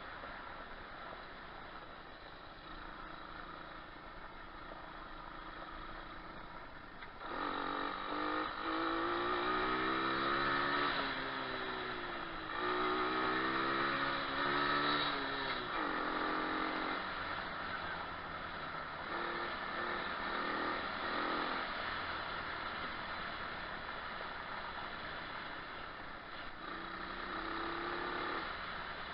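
Moto4 125cc pit bike's single-cylinder four-stroke engine being ridden, running low and steady at first, then revving up and down repeatedly and loudest from about seven seconds in, easing off again afterwards with a few shorter blips of throttle.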